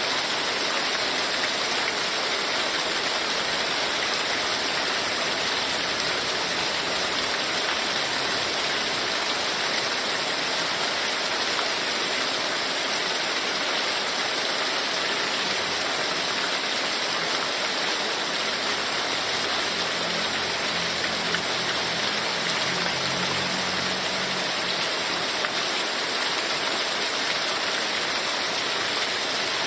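Heavy rain falling steadily, a dense, even hiss of rain with no breaks.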